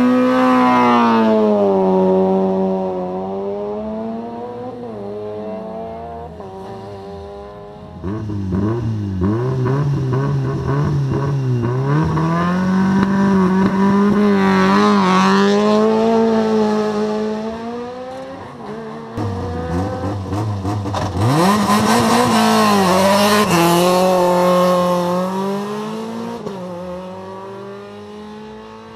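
Rally car engines accelerating hard away from a stage start: one car running loud and fading as it pulls away, then a second car revving from about a quarter of the way in, its engine note rising and dropping as it shifts up through the gears, and fading into the distance near the end.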